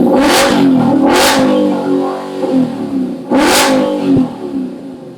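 Ford Mustang GT's 5.0 V8 with a new MBRP full exhaust, revved in three quick throttle blips, about 0.4, 1.2 and 3.6 seconds in. Between and after the blips it drops back to idle, and it gets quieter near the end.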